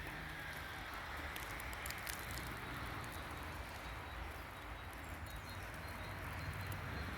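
Faint patter of melting snow dripping from trees, over a steady low outdoor hiss, with a few soft ticks.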